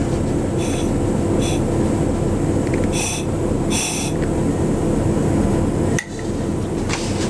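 Train rolling, a steady rumble with four short high-pitched squeals in the first four seconds. The sound drops out briefly about six seconds in.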